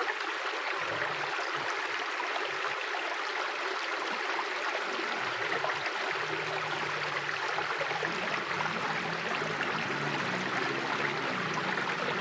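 A mountain river flowing steadily: an even rush of water over rocks, with no change in level.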